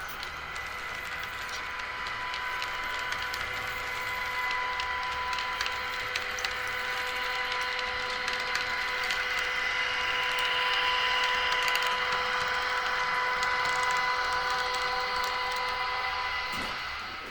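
Märklin H0 model train running along the track: a steady electric whine with a rapid patter of small wheel clicks, growing louder toward its peak about two-thirds of the way through and fading near the end.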